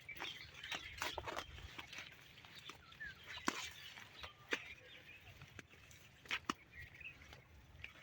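Scattered short rustles and clicks, with a few faint bird chirps and a low rumble in the first second or two.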